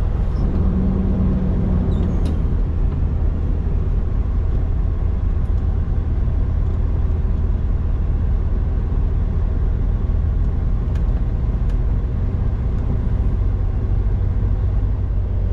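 Road-train prime mover's diesel engine running steadily with a low rumble.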